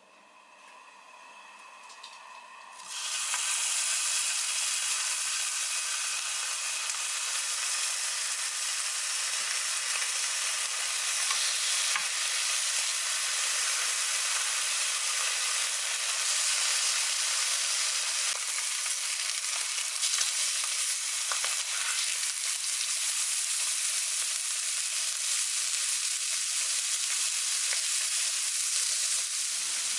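Food sizzling in a hot frying pan. The sizzle starts suddenly about three seconds in, as the food goes into the pan, and then runs on steadily.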